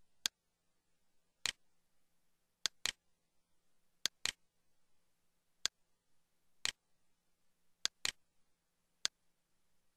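Computer mouse clicks: about eleven short, sharp clicks, some single and some in quick pairs, spaced roughly a second apart over silence.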